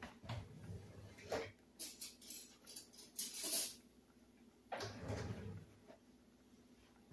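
Spoon stirring and scraping through a skillet of thick creamy chicken sauce, in two spells of short scrapes and knocks.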